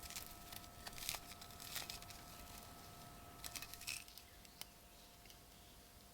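Faint clicks and short scraping rustles from a small metal pocket knife being handled, busiest in the first four seconds and then down to a few single ticks. A faint steady hum runs underneath.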